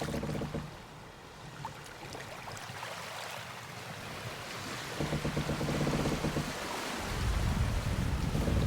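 Waves and water rushing along the hull of a sailboat under sail alone, engine off, with wind, growing louder; over the last couple of seconds wind buffets the microphone in a low rumble.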